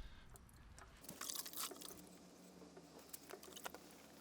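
Faint, irregular scratchy rubbing of wet gray sandpaper on a hand sanding block against a plastic headlight lens.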